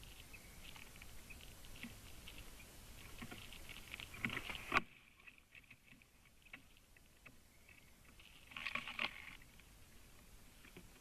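Common raven making a run of short clicking and knocking calls, with two louder bursts of calls, about four seconds in and near nine seconds in.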